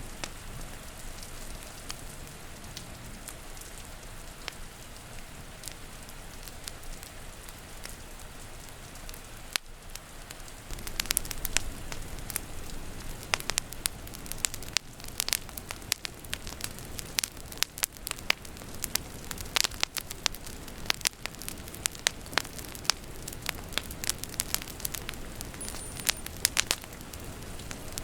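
Steady rain hiss, joined about eleven seconds in by a wood fire crackling, with frequent sharp pops and snaps that become the loudest sound.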